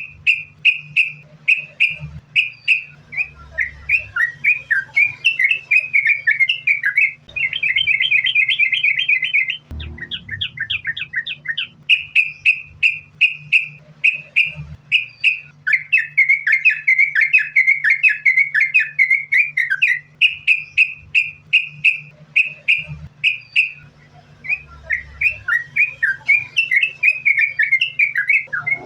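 Yellow-vented bulbul (trucukan) singing vigorously: a continuous string of quick, bright chirps several times a second, with runs of faster rattling notes, over a faint steady low hum.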